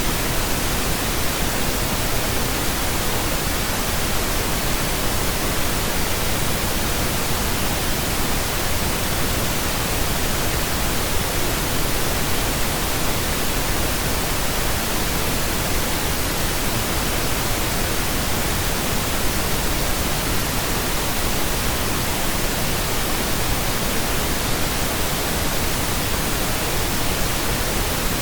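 Steady pink noise: an even, unbroken hiss spread across the whole range from deep to high, with no tones or changes.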